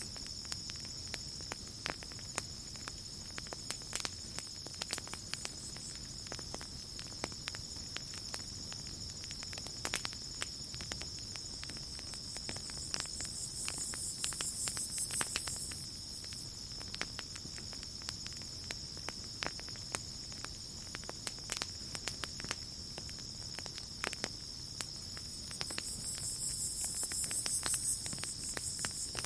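Campfire crackling with sporadic sharp pops over a steady chorus of crickets trilling in a high pitch. A higher insect buzz swells up twice, about halfway through and near the end.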